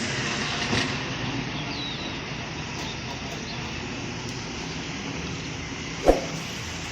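A motor vehicle running steadily amid road noise, with one sharp knock about six seconds in.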